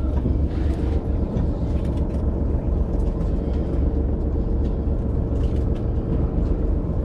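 Fishing boat's engine running steadily: a low drone with a constant hum, and a few faint clicks.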